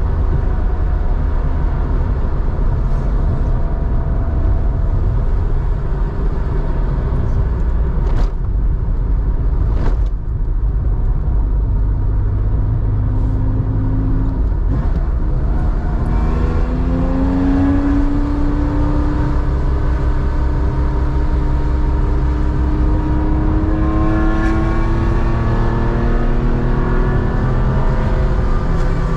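Air-cooled flat-six of a 1987 Porsche 911 with a 3.4 engine and a 2-in-1-out muffler, driving on the road. The engine note climbs as it accelerates about sixteen seconds in and again from about twenty-two seconds. Two sharp clicks come at about eight and ten seconds in.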